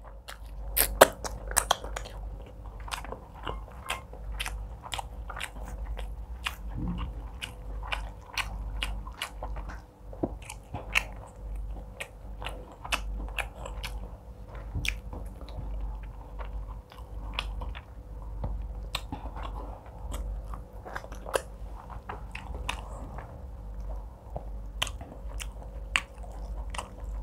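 Close-miked chewing of a mouthful of egusi soup and fufu, eaten by hand: wet, smacking mouth sounds with many small sharp clicks, several a second.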